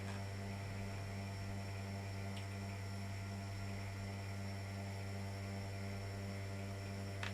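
Steady low electrical hum with a faint regular pulsing, and a light click about two seconds in and another near the end.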